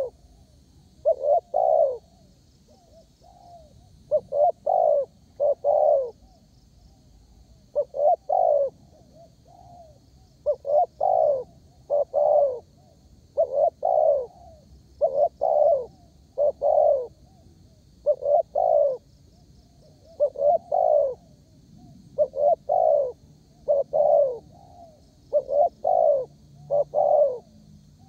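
Spotted dove (tekukur) cooing steadily and eagerly, phrase after phrase of two or three mellow notes, a new phrase every two to three seconds.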